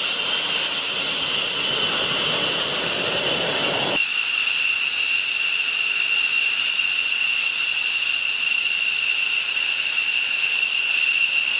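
Jet engine running with a steady high-pitched whine. The lower rumble under it drops away abruptly about four seconds in.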